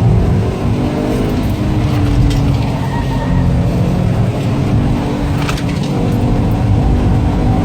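Subaru WRX STI's turbocharged flat-four engine pulling hard under track driving, heard from inside the cabin, its note rising and falling with the throttle and gear changes.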